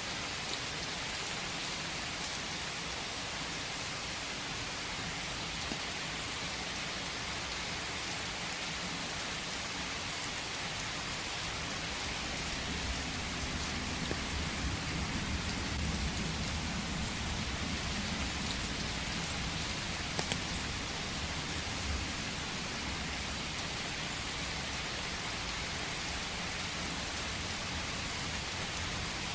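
Steady rain falling, an even hiss of drops on surfaces. A low rumble swells in the middle and fades again.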